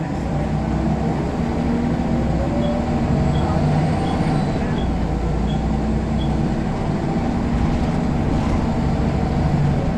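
Diesel engine of a Scania L94UB single-deck bus, a 9-litre five-cylinder, running steadily with a low drone that rises slightly in pitch in the first few seconds. Faint light ticks come about every 0.7 s until about six seconds in.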